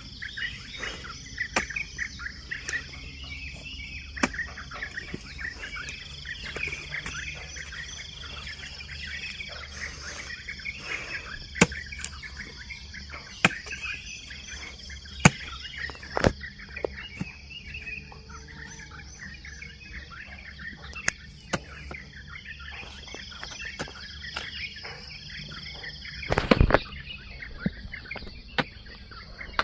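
Many birds chirping and twittering over a steady high insect drone, with a few sharp thuds of a hoe striking the soil, the loudest near the end.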